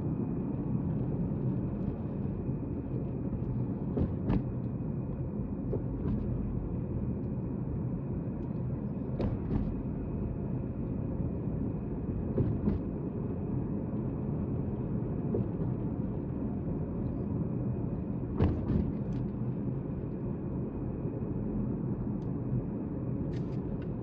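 Car road noise heard inside the cabin: a steady low rumble of tyres and engine while driving. A few sharp knocks, several coming in quick pairs, punctuate it.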